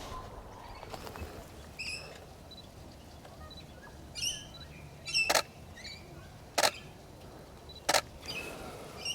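Camera shutter firing three times, about a second and a half apart, as frames are taken. Short high bird chirps call earlier, about two and four seconds in.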